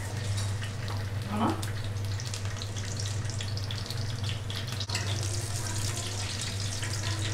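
Onion pieces sizzling in smoking-hot oil in a pan, a steady hiss dotted with fine crackles, over a steady low hum.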